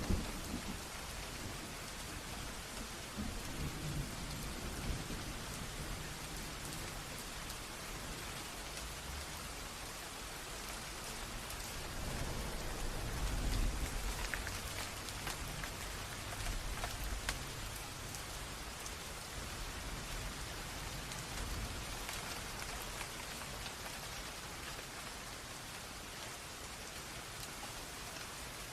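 Steady rain with the rush of a small stream, and low rumbles of thunder: a short one at the very start and a longer one about twelve to fourteen seconds in.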